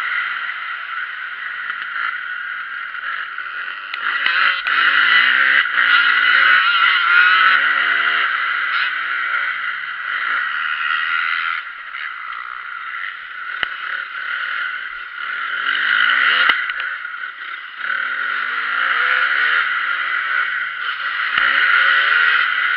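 Motocross bikes running around a dirt track, engines revving up and dropping back again and again as they accelerate and brake through the course.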